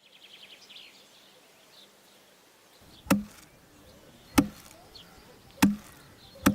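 Four sharp chopping knocks, evenly spaced a little over a second apart, starting about three seconds in. Faint high chirping of birds or insects comes in the first second.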